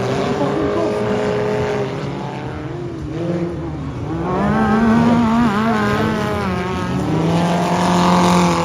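Racing buggies' engines on the track, revving up and down as they race, the pitch repeatedly rising and falling, with more than one engine heard at once.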